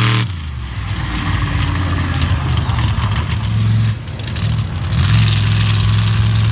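Monster truck engine running hard under heavy throttle, with two brief let-offs, one just after the start and one about four seconds in, before it revs back up.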